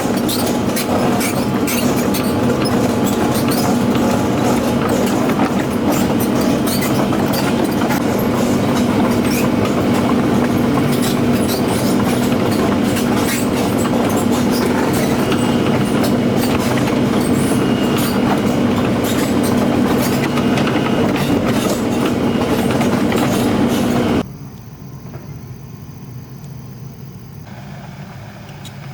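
Tracked excavator travelling, its diesel engine running steadily under a constant clatter and squeal of steel track links. The sound cuts off abruptly about 24 seconds in, leaving a much quieter background.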